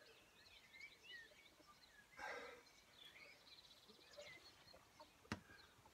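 Quiet outdoor ambience with faint birds chirping and trilling. A short soft rush of noise comes about two seconds in, and a single sharp click near the end.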